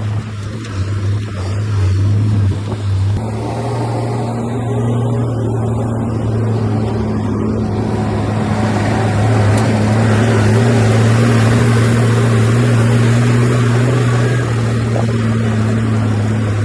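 Diesel engine of heavy earthmoving machinery running steadily under load, with a low hum and mechanical clatter that grows louder a few seconds in and eases slightly near the end.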